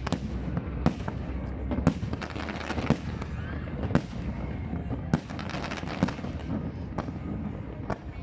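Aerial fireworks bursting, a sharp bang about once a second over continuous crackling.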